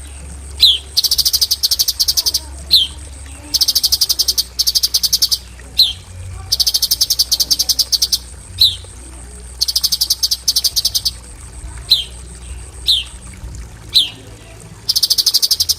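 Cucak cungkok songbird singing its 'tembakan' song: fast rattling trills of rapid notes, each lasting a second or so, alternating with short, sharp downward-sliding whistles. A faint steady high whine runs underneath.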